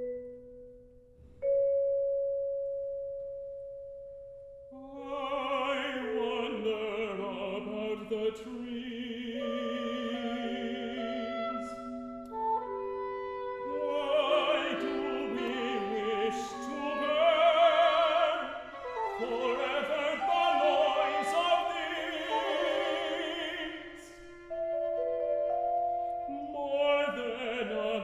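Classical chamber music: a long ringing mallet-percussion note opens it. From about five seconds in, several held, slowly overlapping lines with vibrato enter and swell louder in the middle.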